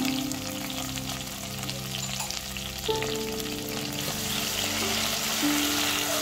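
Beef, potatoes and freshly added chopped tomatoes sizzling in a hot pot as they are stirred with a wooden spatula, with background music playing.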